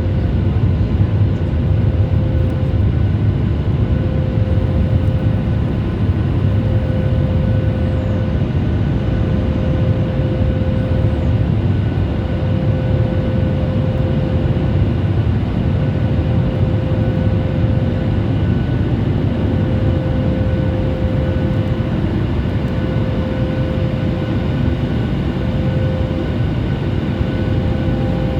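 Steady cabin drone of a Boeing 737 MAX 8 in flight: the low rumble of engines and airflow, with a steady mid-pitched hum over it.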